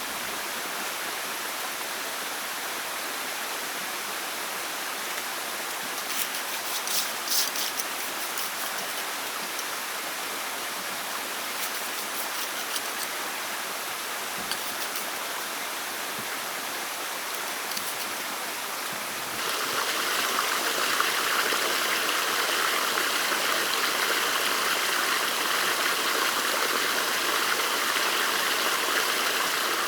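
Steady rush of running water, with a few light clicks about six to eight seconds in. About two-thirds of the way through the water sound jumps louder and brighter, then stays there.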